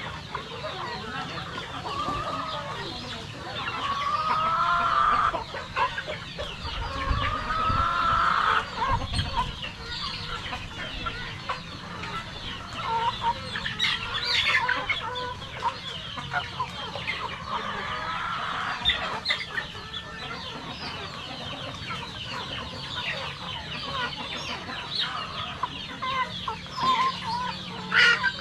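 A flock of Rhode Island Red chickens clucking continuously, many birds calling over one another, with two longer drawn-out calls standing out about four and eight seconds in.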